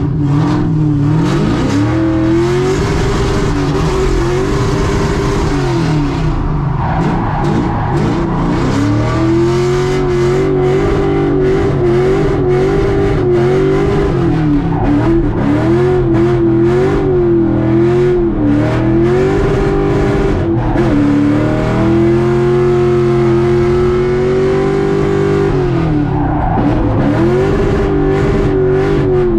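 Chevrolet Camaro engine revving hard under drift driving, its pitch climbing, holding and dropping again and again as the throttle is worked, with tire noise, heard from inside the cabin.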